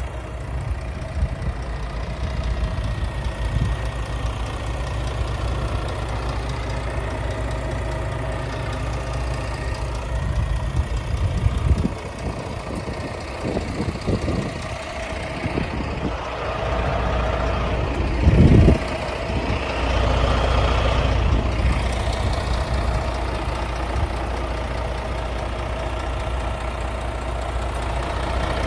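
Scania S500 truck's V8 diesel engine idling steadily, with a few irregular louder moments around the middle and one short, loud low burst a little past halfway.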